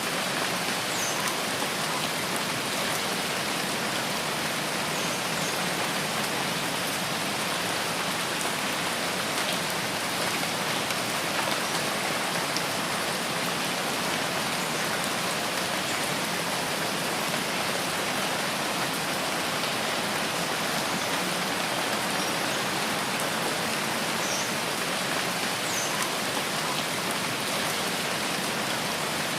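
Steady heavy rain falling in a rainforest, an even, unbroken hiss of drops on leaves and ground.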